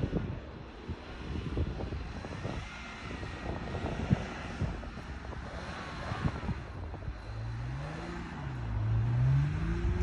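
Jeep Wrangler engine revving as it spins through deep snow, a low rumble that climbs in pitch, dips, and climbs again in the last few seconds, loudest near the end.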